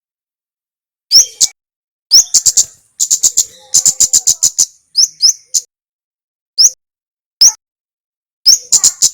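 Male kemade (kemlade merah) songbird singing in short bursts: sharp, high upswept chips, some runs of rapid ticking notes, and brief pauses between phrases.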